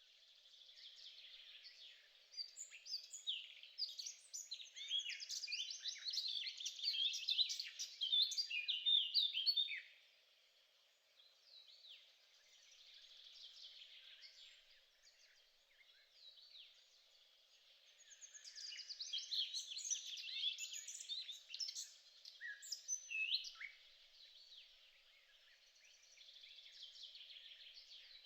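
Small birds chirping, many quick overlapping calls in two louder bouts, the first peaking about a third of the way in and the second over halfway through, with sparser chirping between. A faint low steady hum lies underneath.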